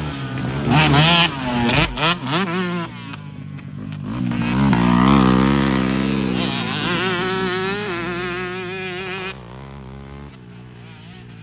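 Yamaha YZ125 single-cylinder two-stroke motocross bike engine revving in quick bursts, then climbing in pitch and holding a high steady note before it drops off suddenly near the end.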